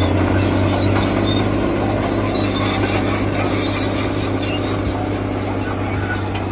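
Electric motors and gearing of a radio-controlled construction model running steadily: a low hum under a high, squealing whine.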